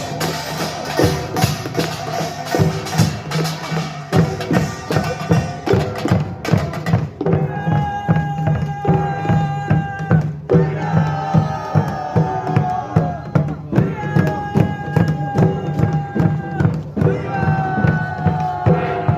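Korean pungmul percussion ensemble playing: drums keep up a steady beat, with dense metallic clattering for the first seven seconds or so; after that the clatter thins and long held melodic notes, each about three seconds and sagging slightly at the end, sound over the drumming.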